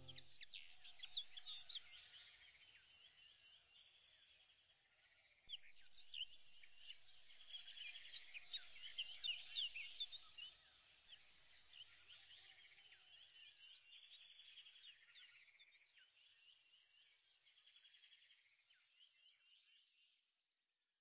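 Faint birdsong: many short high chirps, louder from about five seconds in, then fading away near the end.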